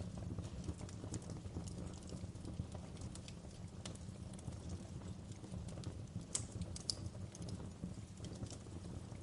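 Wood fire crackling in a fireplace: irregular sharp pops and snaps over a steady low rumble, with two louder pops a little past the middle.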